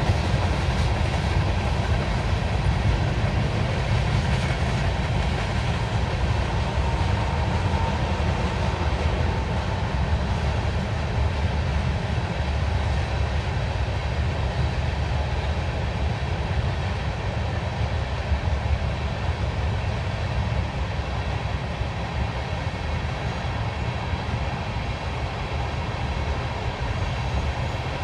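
Norfolk Southern freight train rolling past, a steady rumble of the cars on the rails that eases off slightly toward the end.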